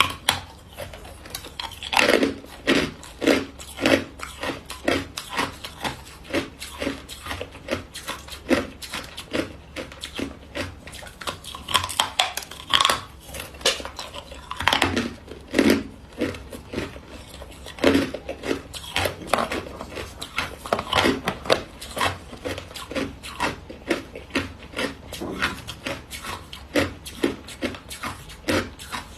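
Hard white block ice being bitten and chewed: a continuous run of irregular crunches and cracks, with louder bites every second or two.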